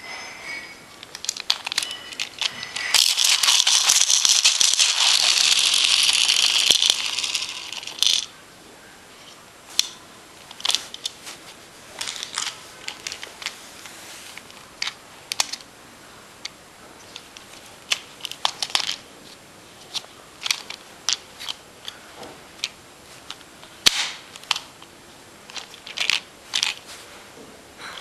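Beyblade rev-up launcher and its plastic parts handled. A loud, even rattling whirr lasts about four seconds, starting about three seconds in, followed by scattered plastic clicks and rattles.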